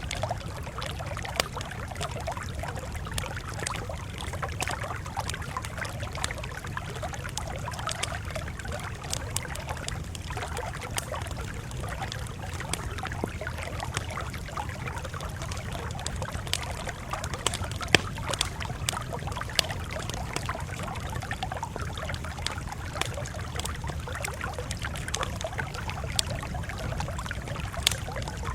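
Campfire crackling steadily, with scattered sharp pops and snaps over a low, constant rumble; the sharpest pop comes about eighteen seconds in.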